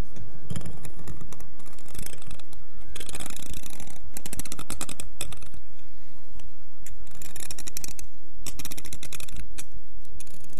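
Rapid, crackly clicking and tapping close to the microphone, coming in bursts of a second or two.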